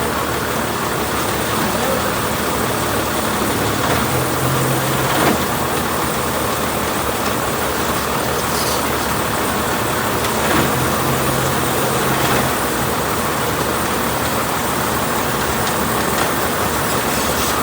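Truck engine running under a steady wash of engine and road noise, with a low hum that comes and goes and a few light knocks.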